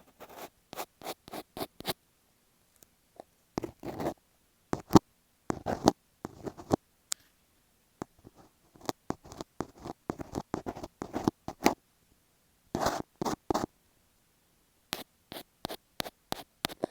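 Scratching on masking tape stuck over an earphone microphone: quick runs of short, crisp strokes with brief pauses between them.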